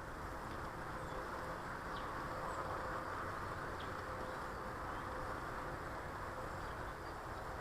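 Steady outdoor background noise, with a few faint, short bird chirps now and then.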